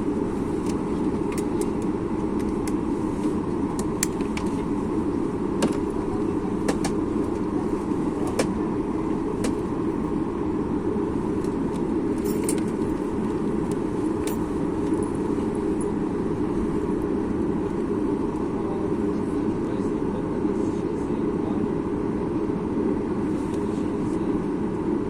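Steady cabin drone of a Boeing 737 MAX 8 on the ground, with its CFM LEAP-1B engines running at low power before takeoff. Light clicks and rattles from the cabin come and go through the first half.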